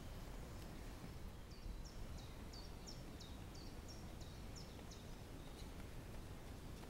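A small songbird singing a run of about ten short high notes, each dropping in pitch, at about two a second. A steady low outdoor rumble lies underneath.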